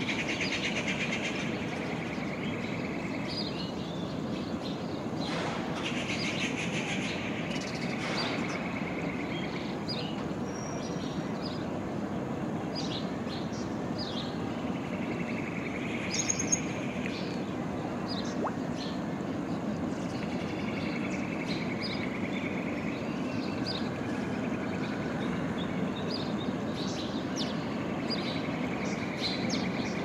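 Common babbler calling: scattered short chirps and several stretches of rapid trilled notes, each lasting a few seconds, over a steady low background rumble.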